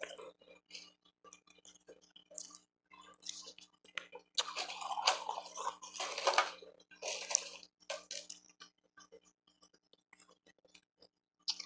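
Close-miked crunching and chewing of refrozen ice: scattered crackles, then a dense stretch of crunching through the middle, followed by shorter bites and a few crisp crackles.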